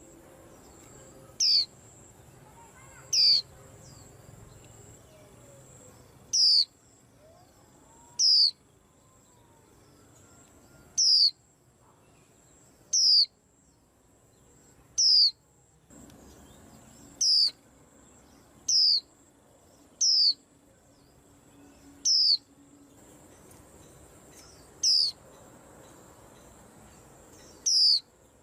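A white-eye calling: short, high, falling notes given singly, about thirteen times, one every two seconds or so.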